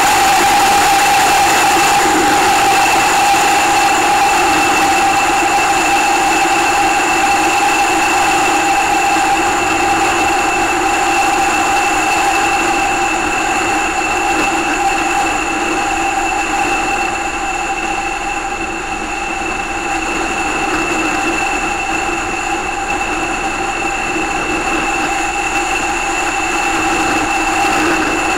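Kawasaki Z800's inline-four engine running steadily at cruising speed under wind rush. It makes a steady whine that eases a little past the middle and picks up again near the end.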